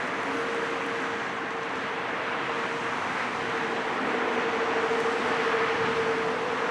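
Boeing 787-9 jet engines running, a steady rushing noise with a constant hum underneath, growing a little louder in the second half.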